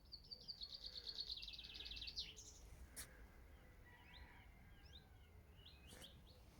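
A small songbird sings a fast, high trill lasting about two seconds near the start, followed by scattered short chirps over faint outdoor background noise. Two faint clicks come about halfway through and near the end.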